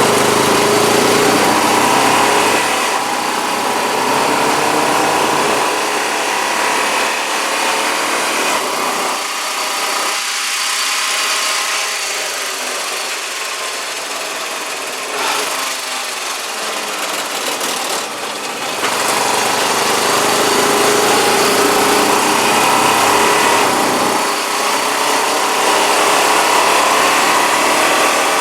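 Honda side-by-side's engine running as it drives along, its pitch rising and falling with speed, over a steady rush of wind and road noise. It eases off for a stretch about ten seconds in, then picks up again.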